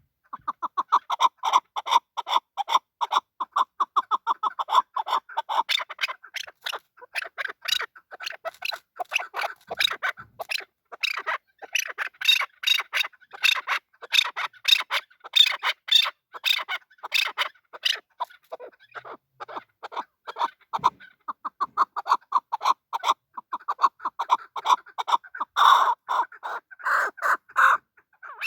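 Chukar partridge (chakor) calling: a long series of rapid clucking chuck notes, about four or five a second, that keeps going without a break.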